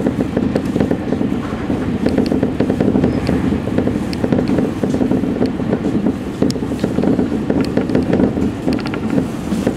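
Electric commuter train running at speed, heard from the front of the cab: a steady rumble of wheels on the rails, with a constant scatter of short clicks and rattles.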